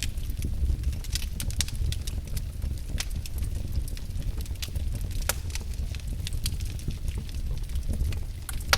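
Wood fire crackling in a fireplace: irregular sharp pops and snaps over a steady low rumble, with the loudest pop near the end.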